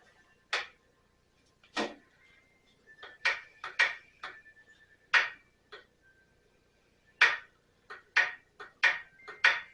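Irregular sharp clicks and knocks of parts and tools being handled while working on the mower's air intake, some in quick clusters of two or three.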